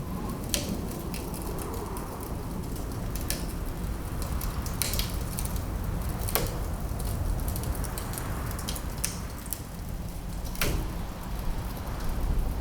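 Wood fire crackling in a fireplace, with sharp pops at uneven intervals over a steady low rumble, and winter wind blowing.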